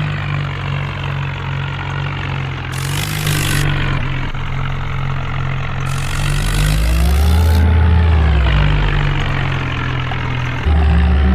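Tractor engine running steadily, with a rise and fall in engine pitch about seven seconds in and a sudden jump in loudness near the end.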